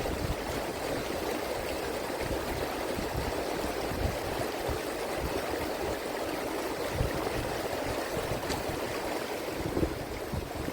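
Steady rush of flowing water, with an uneven low rumble of wind on the microphone underneath.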